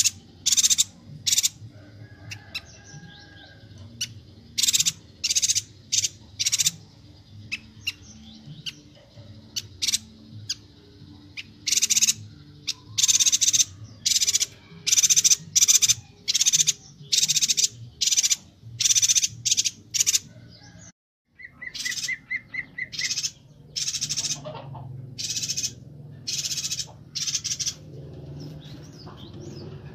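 Chestnut-crested yuhina (Yuhina Kalimantan) calling busily: short, sharp, high-pitched notes given in quick runs, one after another. About two-thirds of the way through there is a brief break, then a short rapid trill.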